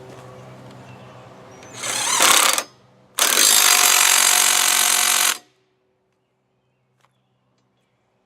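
Handheld power tool run in two bursts, about a second and then about two seconds, each cutting off sharply.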